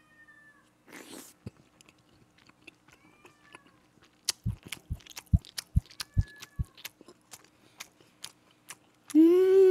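Open-mouthed chewing of a big mouthful of rice, kimchi stew and grilled pork: wet smacking clicks, with a run of about six soft thumps midway. A cat meows faintly three times, and near the end there is a loud drawn-out voiced groan of enjoyment.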